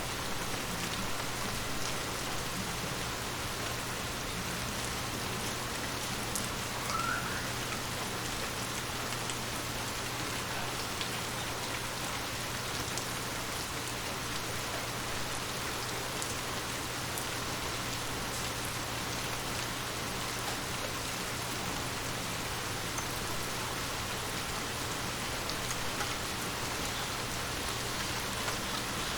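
Steady rain falling, with scattered ticks of individual drops hitting surfaces close by and a faint steady low hum underneath.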